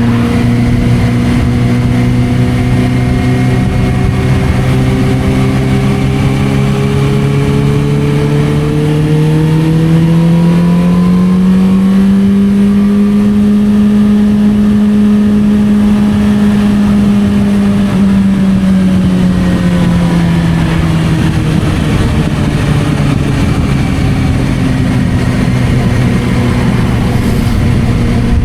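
Suzuki GSR600's inline-four engine through a Dominator aftermarket exhaust, under way on the road. The engine pitch holds steady, climbs gradually for a few seconds as the bike speeds up, holds there for several seconds, then eases back down.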